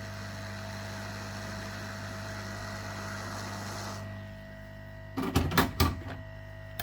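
Hot air rework station blowing at reduced airflow: a steady hiss that stops about four seconds in, leaving a low hum. A few sharp knocks and clicks follow near the end.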